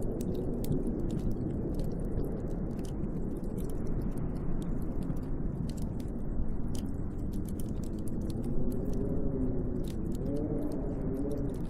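Snowstorm wind blowing steadily, with a wavering whistle that glides up and down in pitch, strongest near the end. Faint scattered ticks sound throughout.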